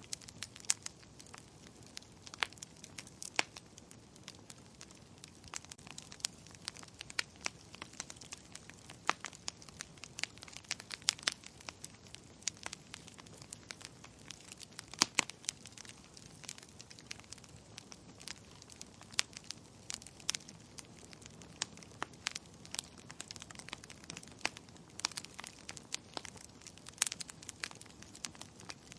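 Wood fire crackling in a fireplace: irregular sharp pops and snaps, sometimes several a second, over a soft steady hiss.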